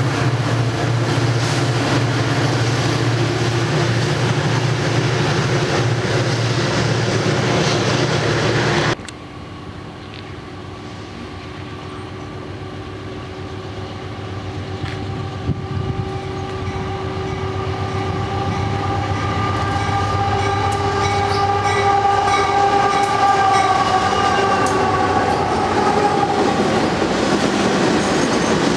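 A train passing close by, loud and rumbling with a steady low hum, cuts off abruptly about nine seconds in. Then another train is heard approaching and growing steadily louder, with several steady high tones sounding together above the rumble.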